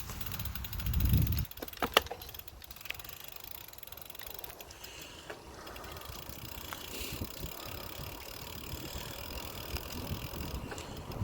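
Bicycle riding along a paved trail: a steady rush of tyre and wind noise, with wind buffeting the phone's microphone as a low rumble in the first second or so and a few sharp clicks about two seconds in.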